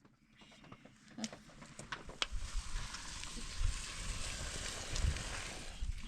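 Steady hiss of rain falling, fading in after a short silence, with a few sharp drip-like taps and a couple of dull low thumps.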